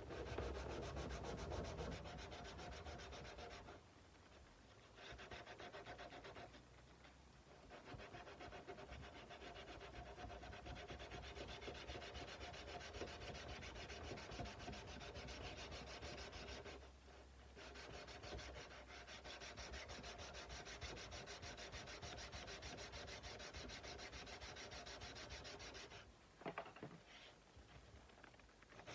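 Sandpaper rubbed by hand along the steel blade of a Nepalese kukri in quick back-and-forth strokes, stopping briefly a few times.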